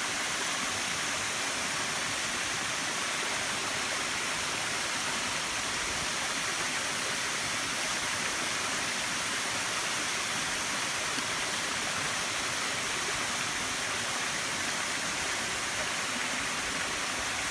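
Oneta waterfall: water falling and splashing in a steady, unbroken rush, mostly a high hiss.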